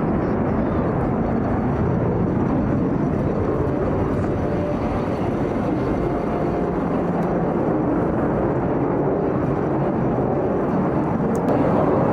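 Display aircraft engine noise, a steady loud rush heard from the ground, rising slightly near the end.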